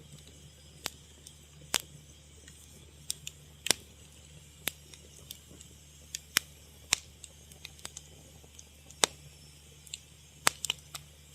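Fire crackling: irregular sharp pops and snaps at uneven intervals over a faint steady hiss and a low hum.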